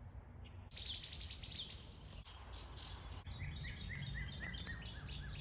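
Birds singing: a fast, high trill about a second in, then a run of short repeated chirps, about three a second, near the end.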